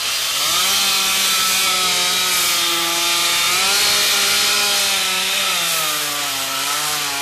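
Two-stroke chainsaw cutting a poplar log at high revs. It revs up about half a second in, holds a steady high pitch, and its pitch sags lower near the end.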